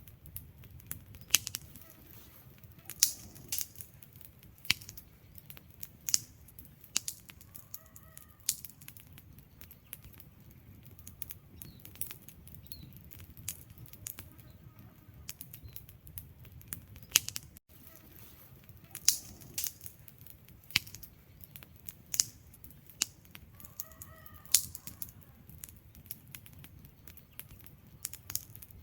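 Wood fire burning in a fireplace: burning logs crackle with irregular sharp snaps and pops over a low, steady rumble of flames.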